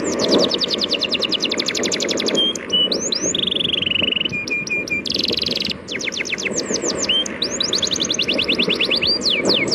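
Songbirds chirping in fast runs of sharp downward-sweeping notes, mixed with a few short steady whistles, over a steady wash of sea waves.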